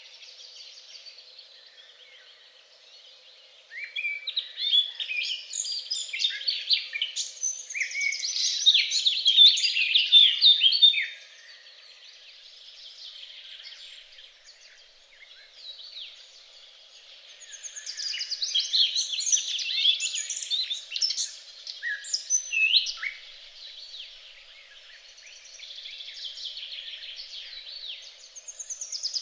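Songbirds singing, a fast jumble of high chirps and trills. Two long, loud bouts of song are separated by quieter calling, and the song swells again near the end.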